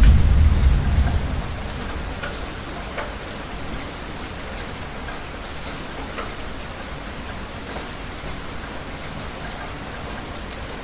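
Steady heavy rain with individual drops striking close by, under a low thunder rumble that dies away over the first second or two.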